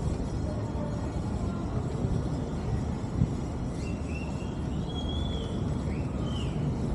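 Steady low rumbling background noise, with a few faint high chirps in the second half.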